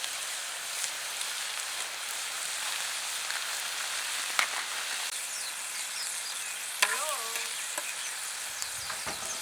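Food sizzling steadily on a hot iron griddle over a campfire, with a couple of sharp clicks partway through.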